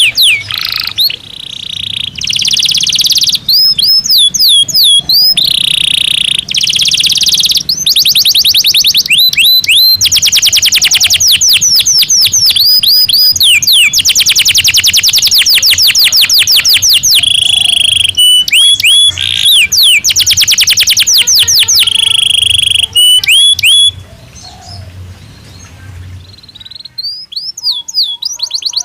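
Domestic canary singing a loud, continuous song of very fast rolling trills, runs of quick downward-slurred notes and held whistles. About 24 seconds in it drops to softer notes for a few seconds, then picks up again near the end.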